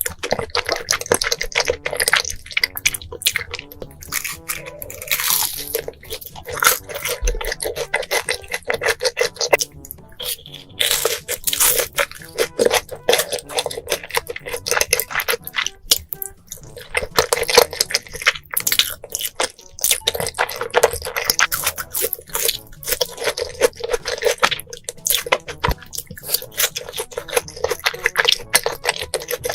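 Close-miked eating of Korean instant noodles: slurping and chewing, with many quick wet clicks packed close together.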